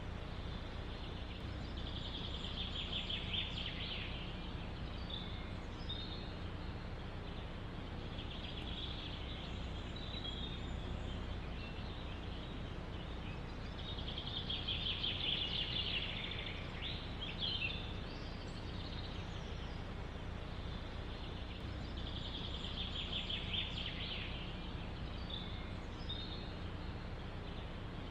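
A songbird repeating a fast trilled phrase three times, about two seconds each and roughly ten seconds apart, with short chirps in between. Under it is a steady low rumble of wind in a forest.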